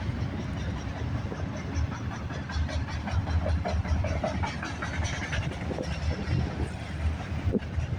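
Freight train cars, including auto racks, rolling past at speed: a steady low rumble of steel wheels on rail, with scattered short higher squeaks.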